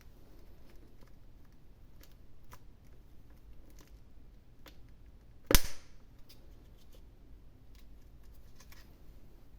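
Hands handling surprise-egg packaging, with faint scattered clicks and one loud, sharp snap a little past halfway.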